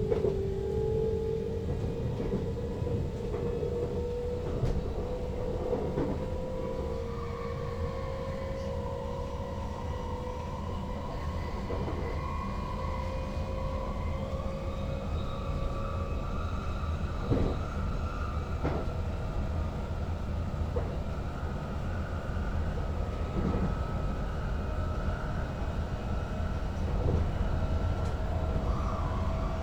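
NS Sprinter Lighttrain (SLT) electric train heard from the cab: its traction motors whine at a pitch that slowly rises as the train gathers speed, over a steady rumble of wheels on rails. A few sharp clicks come from the wheels crossing rail joints or points.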